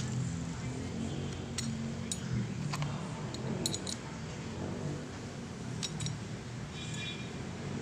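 Light metallic clinks, about six of them at irregular intervals, over a low steady hum: small metal tools or parts being handled.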